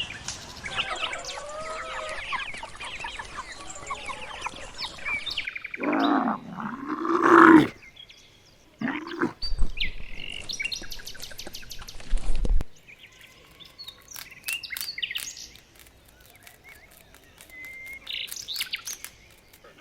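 A succession of different bird calls, chirps and trills, one clip after another, with a louder, lower call with a bending pitch in the middle.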